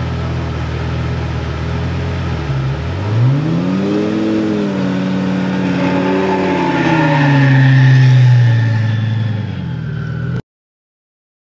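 Twin-turbo Lamborghini Gallardo's V10 engine running steadily, then revved. The pitch climbs sharply about three seconds in, dips and rises again, then falls away slowly before the sound cuts off abruptly.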